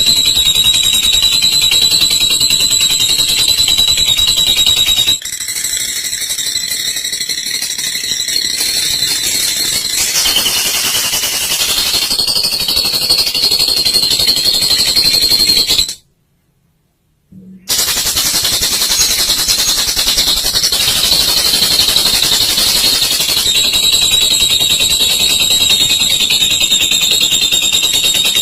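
Olive lovebird singing a long 'ngekek': a continuous, rapid, high-pitched chattering trill. It stops for about a second around the middle, then resumes.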